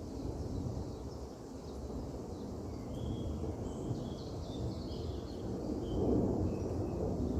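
Wild birds giving short, high chirps from a few seconds in, over a louder low background noise that swells near the end.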